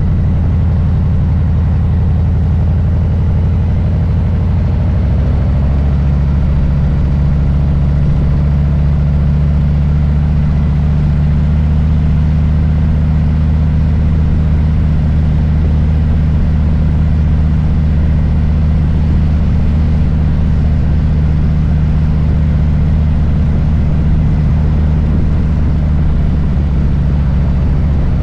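Harley-Davidson Low Rider S's Milwaukee-Eight V-twin running as the bike is ridden, a loud, steady low engine note that steps up in pitch about five seconds in and then holds.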